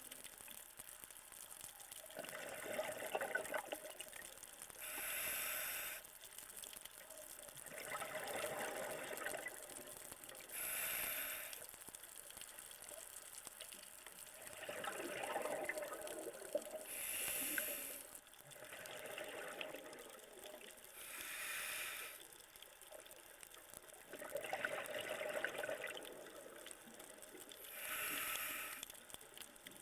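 Scuba diver breathing through a regulator underwater: a slow, even cycle of about five breaths, each a drawn-in hiss followed by a short rush of exhaled bubbles.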